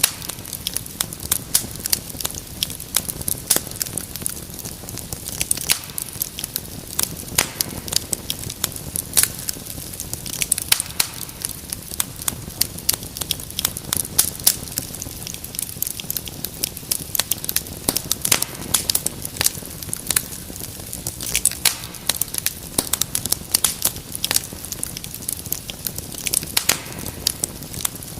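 Wood fire crackling in a fireplace: a dense, irregular run of sharp pops and snaps over a low steady rush of burning.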